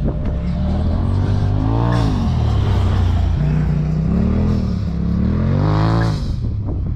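Dirt bike engine revving hard on a hill climb, its pitch rising and falling with the throttle: a high peak about two seconds in, another near the end, then it drops off.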